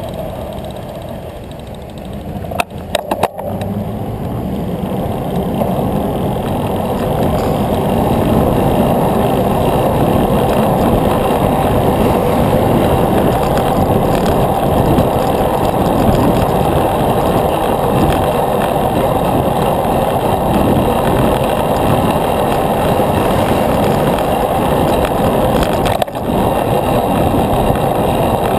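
Riding a bicycle along a road: steady wind buffeting the microphone and tyre rumble, building up over the first few seconds as speed picks up, with a few sharp clicks about three seconds in.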